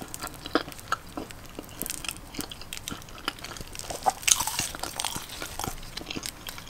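Close-up chewing and biting of a chicken quesadilla: irregular wet mouth clicks and small crunches, with a louder crunch about four seconds in.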